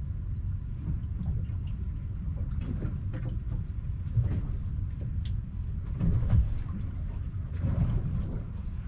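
Steady low rumble of wind and rain on an open fishing boat, with scattered light taps and clicks and a couple of louder swells around six and eight seconds in.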